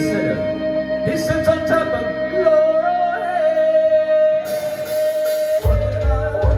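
Live band music with singing: a long held note with sliding melodic lines over it, a cymbal wash just before the five-second mark, then bass and drums come in with a heavy, even beat about five and a half seconds in.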